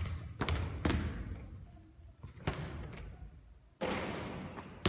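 A basketball thudding on a hard court, about five separate impacts in under five seconds, each with a short echo.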